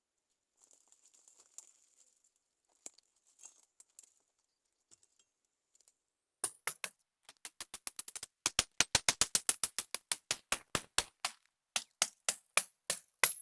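A knife chopping on a cutting board: a run of sharp, evenly spaced knocks that starts about halfway through and reaches about four strokes a second. Before it there are faint small clicks and rustles.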